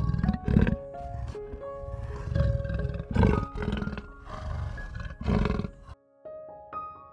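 A big cat roaring and growling in a series of loud, low, rough bursts that stop abruptly about six seconds in, over soft piano music.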